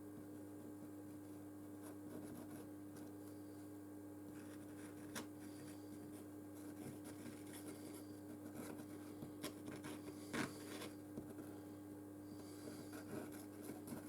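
Faint rubbing and handling noises of small phone parts being fitted by hand, with a few small clicks, the sharpest about ten seconds in, over a steady low electrical hum.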